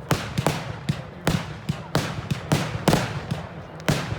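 Fireworks display: a rapid, irregular run of bangs, about three a second, each with a short echoing tail.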